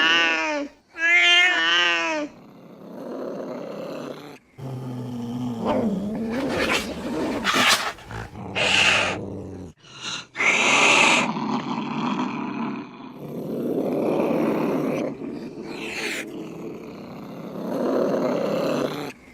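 Angry cats yowling, hissing and growling, heard as a string of short clips joined by abrupt cuts. Wavering yowls come in the first two seconds, then hisses and low growls follow.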